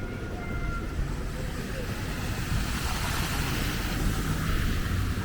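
Traffic on a flooded street: a vehicle's low engine rumble with tyres swishing through floodwater, the hiss of the water swelling about two seconds in.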